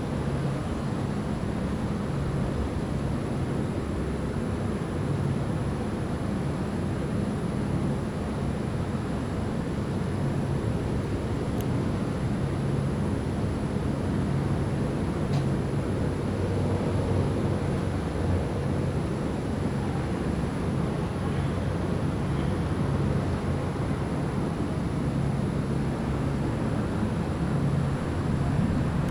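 Thunderstorm wind and rain making a steady low rush that swells slightly at times.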